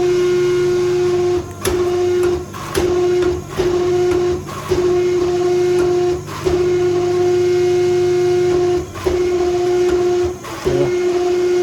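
12-ton hydraulic forging press running with a steady whine, broken by a short dip every one to two seconds as the press works the hot steel.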